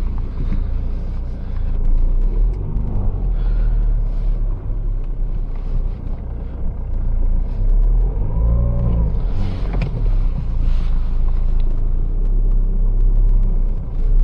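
Car engine running as the car pulls away and drives slowly, heard from inside the cabin. The engine note rises and falls once about eight seconds in, and there is a sharp click near ten seconds.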